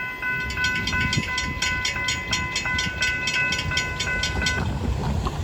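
Railroad grade crossing bell ringing in rapid dings, about five a second, then cutting off about four and a half seconds in, over the low rumble of the passing freight train.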